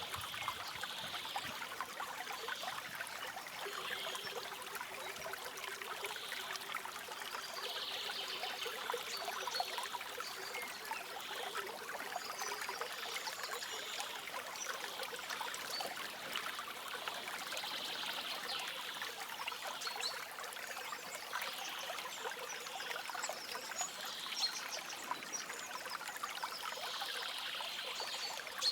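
River water trickling and babbling steadily, swelling and easing gently every few seconds.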